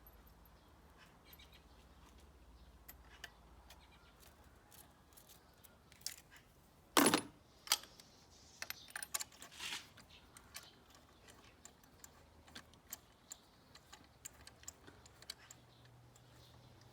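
Metal hand tools clinking and clicking against each other and the engine during a spark plug change, in scattered light clicks with a louder scrape-like clank about seven seconds in.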